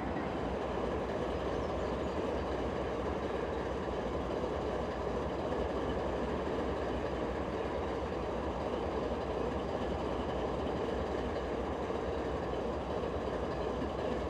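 Freight train rolling past, a steady, unbroken noise of wheels running on rail.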